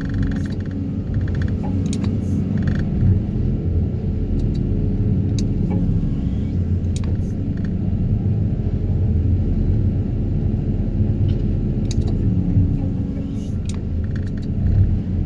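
Daedong 350T excavator-mounted vibro hammer running, vibrating a steel sheet pile loose as it is extracted, over the excavator's diesel engine: a steady heavy rumble and low hum with a few short sharp clicks.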